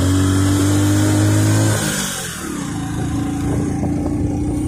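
Motorcycle engine running while riding, heard from the saddle; about two seconds in its note glides down and dips as the throttle eases, then it runs on steadily.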